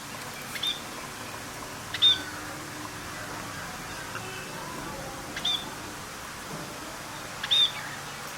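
A bird giving short, high chirps, four in all at uneven gaps, the second and last the loudest, over a steady low background hum.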